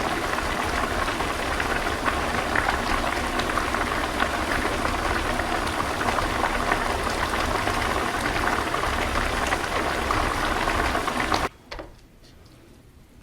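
Budae jjigae (army stew) bubbling at a steady boil in its pot, a continuous crackling bubbling noise that cuts off suddenly about eleven and a half seconds in.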